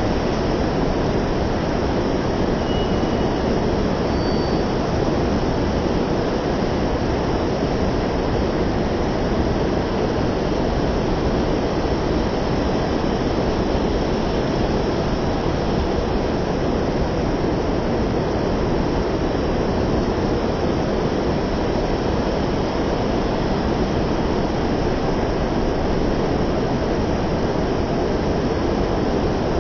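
Heavy rain falling, a steady, dense hiss with no let-up.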